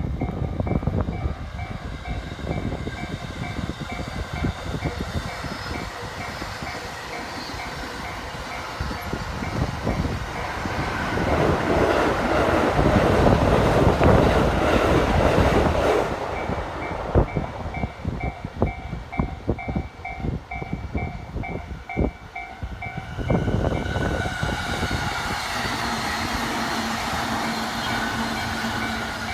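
JR electric commuter trains running past a level crossing, their wheels clacking over the rail joints. The noise is loudest about halfway through as a train rushes close by. The crossing's warning alarm dings in a fast repeating pattern at the start and again for several seconds in the second half.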